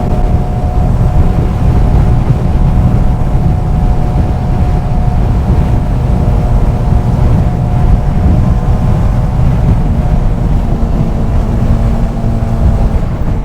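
Benelli 600i motorcycle's inline-four engine running at a steady cruise while riding, heavily mixed with wind rush on the helmet microphone.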